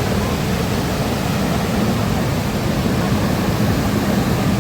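Steady, loud rushing noise, heaviest in the low end and fluttering there, with no break or change.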